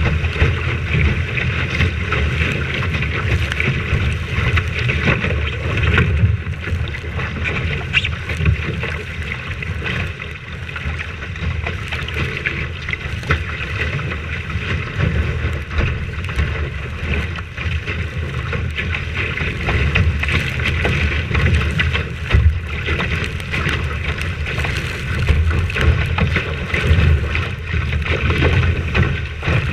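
Wind buffeting the microphone aboard a sailing boat under way: a continuous gusty rush that swells and eases every few seconds.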